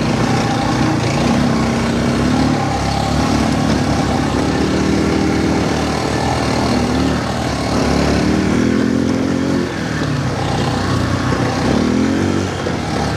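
ATV (quad bike) engine running under way, its revs rising and falling several times, with a clear rise in revs near the end.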